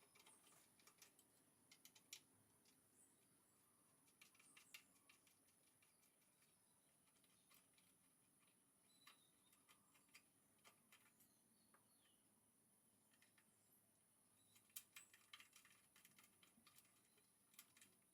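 Near silence with faint scattered clicks and ticks, bunched in a few short clusters, the most near the end.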